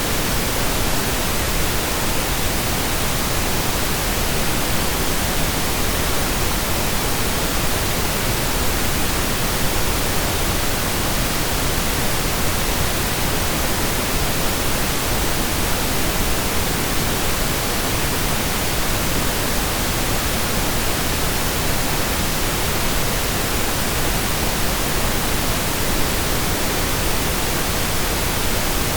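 Steady synthesized pink noise: an even, unchanging hiss spread across the whole audible range, like steady rain or a waterfall.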